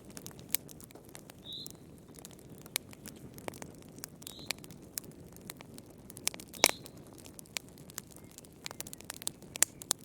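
Wood fire crackling in a fireplace: irregular pops and snaps over a low, steady rush, with the loudest snap about two-thirds of the way in. A few brief high squeaks come in between.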